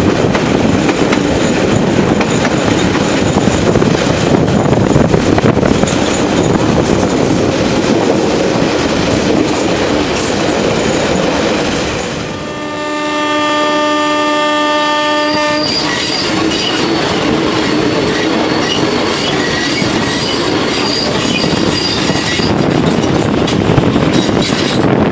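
Passenger train in motion: the steady rattle and rumble of the carriages running on the rails. Just past the middle comes one long horn blast from the locomotive, lasting about three and a half seconds.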